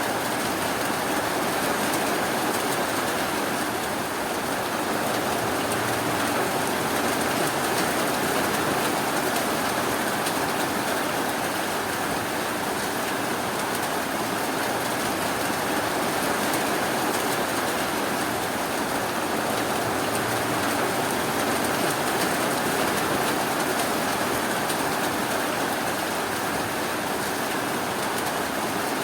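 Steady rainfall, an even rushing patter with no breaks or thunder.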